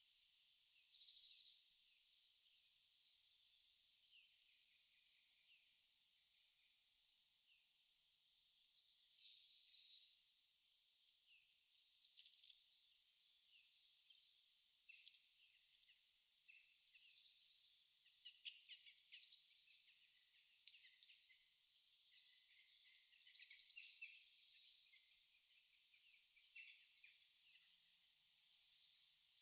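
Birds chirping: about six louder short trilled phrases a few seconds apart, over a continuous faint chatter of other high-pitched bird calls.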